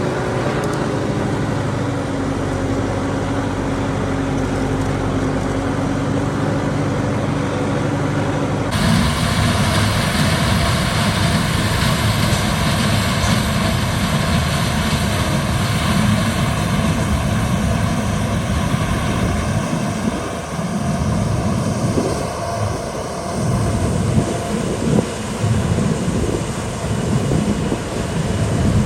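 Tractor engine running steadily. About nine seconds in the sound cuts abruptly to a rougher, noisier engine run, which grows uneven in loudness near the end.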